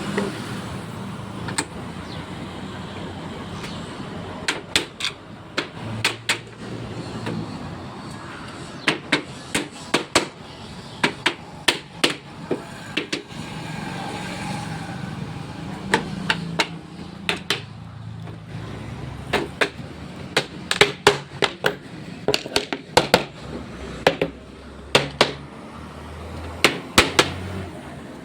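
Hammer blows on wood: sharp knocks in irregular runs and pairs, as nails are driven while fitting a wooden lattice panel. A steady low hum runs underneath.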